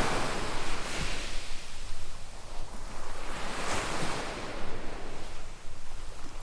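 Small waves washing up on a sandy beach, the surf hiss swelling and fading every couple of seconds, over a low rumble of wind on the microphone.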